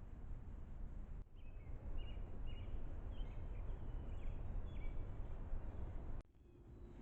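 Steady low outdoor rumble with a run of short, high chirps from a small animal through the middle. The sound cuts off abruptly twice, once about a second in and again near the end.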